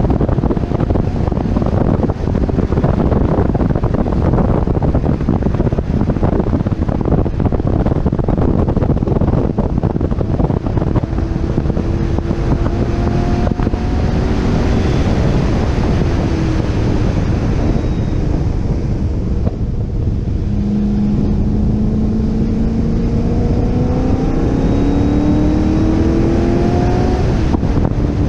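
Chevrolet Corvette C6 Z06's LS7 V8 accelerating down a straight, its note climbing steadily in pitch, with a shift about two-thirds of the way through followed by another long climb. Heavy wind rush on the microphone runs underneath.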